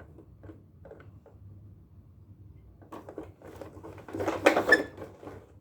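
Plastic toy truck being handled: a few faint knocks in the first half, then a louder run of clicks and clatter in the second half.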